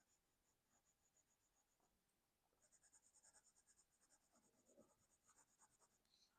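Faint coloured-pencil strokes on sketchbook paper: light, quick scratchy shading strokes, slower at first and then a faster, denser run from about two and a half seconds in.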